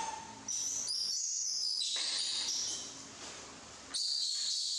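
Birds chirping and twittering in high notes, in two stretches: the first begins suddenly about half a second in and fades after about two seconds, and the second begins suddenly near the end.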